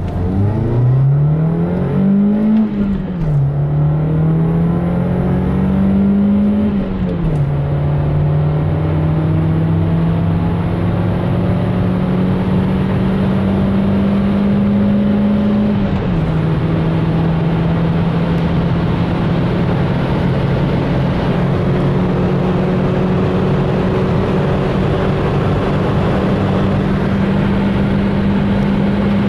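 Nissan Primera P11's SR20DE two-litre four-cylinder engine, fitted with a GT header and no catalytic converter, accelerating hard at full throttle, heard from inside the cabin. The engine note rises to around 6,000 rpm and drops sharply at upshifts about two and a half, seven and sixteen seconds in. In the top gear it climbs only slowly at high speed.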